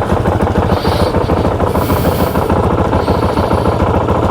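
Motorcycle engine idling steadily right after being started, a fast even run of low firing pulses.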